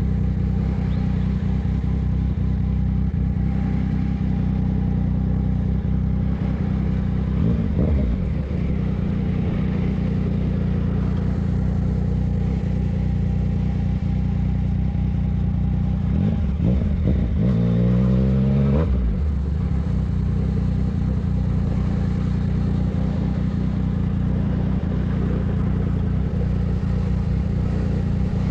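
A Yamaha MT-09's inline three-cylinder engine running at a steady low speed. It changes pitch briefly about eight seconds in, and again between about sixteen and nineteen seconds in, where the revs rise and then fall.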